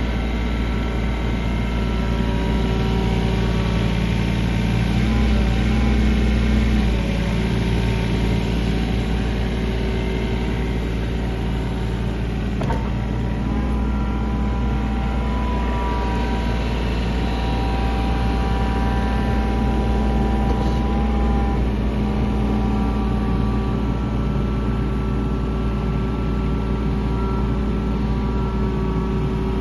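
Caterpillar 301.7D mini excavator's diesel engine running steadily, with whining tones that shift in pitch and the engine swelling louder twice, as under load.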